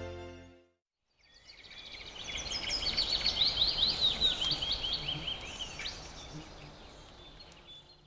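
Background music fading out, then after a short gap a songbird singing a fast run of high chirps and quick falling notes for about four seconds over outdoor background noise, which fades away near the end.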